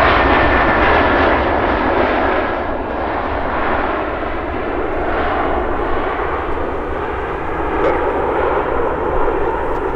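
Airbus A320 jet engines running as the airliner passes, with a thin whine that falls slowly in pitch near the start. The noise eases a little over the first few seconds, then holds steady.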